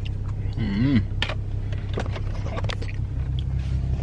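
Steady low hum of a parked car idling, heard inside the cabin. Over it come a few light plastic clicks from salad dressing being poured, and a brief hummed voice sound just under a second in.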